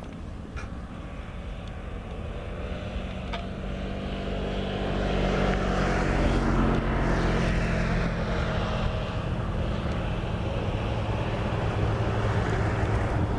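A motor drone with a steady low hum, growing louder over the first half and then holding at that level.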